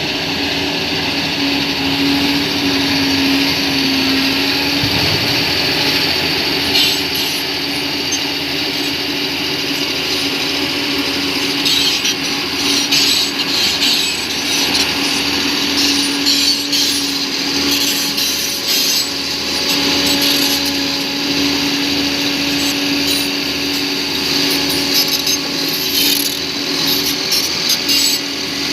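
Crawler bulldozer at work: its diesel engine running steadily under load, with metallic clanking and scraping from the tracks and blade that becomes frequent about twelve seconds in.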